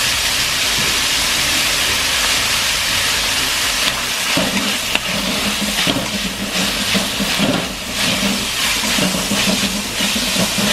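Diced pork with soy sauce frying in oil in a metal wok, a steady loud sizzle. From about four seconds in, a metal skimmer scrapes and stirs the pieces around the pan.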